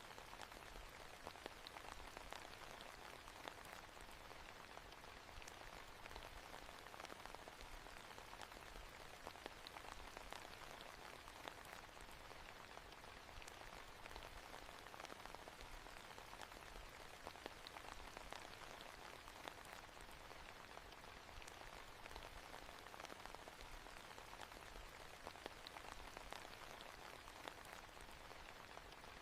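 Steady, quiet rain pattering on a surface, with many small drop ticks.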